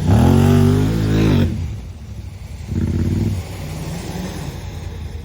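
Vehicle engine revved hard under load during a rope recovery pull, its pitch shifting for about a second and a half before the throttle is let off. A second short rev comes about three seconds in, then the engine runs lower.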